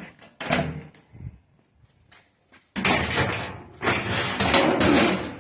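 Sheet-metal panel of a dryer cabinet being moved and handled during disassembly: a short knock, then from about three seconds in a loud sliding, rattling sound in two stretches.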